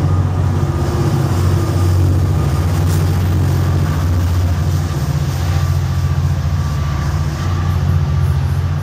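Metrolink commuter train passing close by: bilevel coaches rolling past, then the diesel locomotive, its engine running with a steady low drone over the rumble and clatter of wheels on rail.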